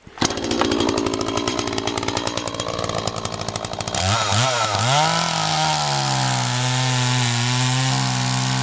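Echo CS-3500 two-stroke chainsaw running at high revs: a rapid, rattling buzz for the first few seconds, then about four seconds in the engine note swings up and down as the throttle is worked before holding a steady pitch.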